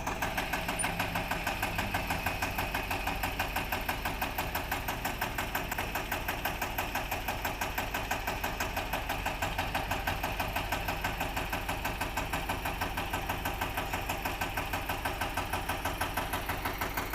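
Eicher 241 tractor's single-cylinder diesel engine idling, a steady, even pulsing beat that does not change in speed.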